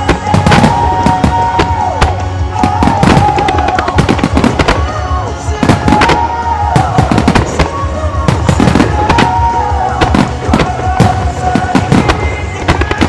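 Starmine fireworks display: shells and mines bursting in quick, irregular succession. Underneath runs music over loudspeakers with a repeating melody.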